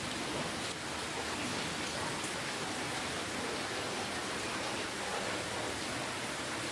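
Steady rainfall: an even wash of falling rain with faint scattered drop ticks.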